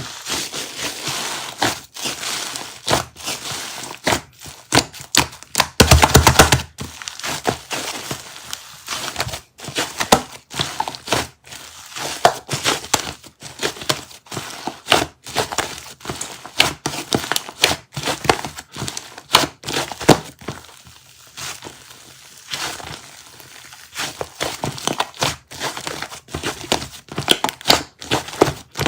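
Dense, irregular crackling and crinkling clicks from a soft material being squeezed and worked by hand, with a louder stretch of crackling about six seconds in.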